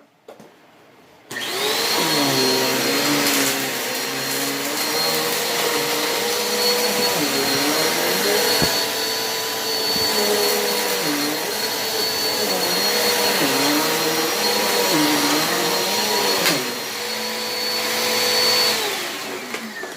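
Dirt Devil Quick Lite Plus vacuum cleaner switched on about a second in and running with a steady high whine, its lower hum dipping and rising as it is pushed back and forth over the floor for one cleaning pass. It is switched off and winds down near the end.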